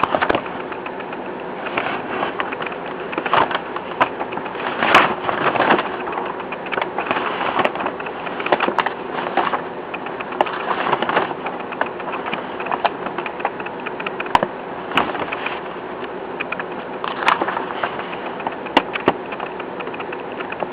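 Pages of a paperback book being leafed through and handled: irregular paper rustles and light clicks every second or two, over a steady background hum.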